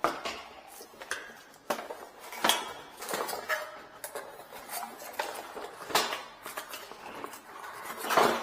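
Irregular clinks and knocks of metal parts and tools being handled during kitchen faucet installation, with a few louder knocks among lighter clicks.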